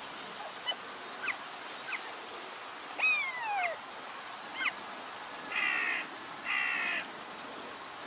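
Birds calling over a steady faint hiss: a few short, curved whistled notes and one longer call that sweeps downward in the first half, then two harsh, raspy calls of about half a second each, a second apart.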